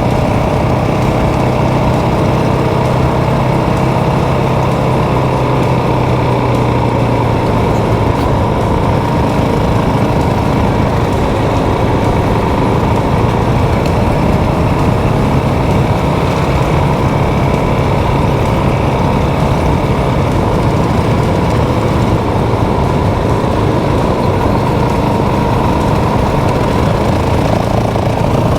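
Motorcycle engine running steadily under way, with a constant rush of riding noise; the engine note shifts a little about eight seconds in.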